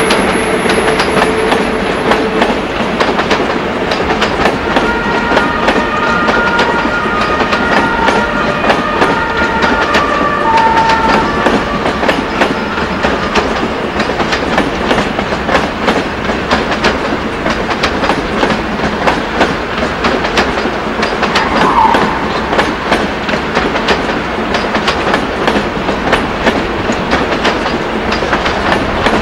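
ICE high-speed train rolling past, its wheels clattering over rail joints and points in a steady, dense clickety-clack. A few brief high-pitched tones sound between about five and eleven seconds in, and one more near twenty-two seconds.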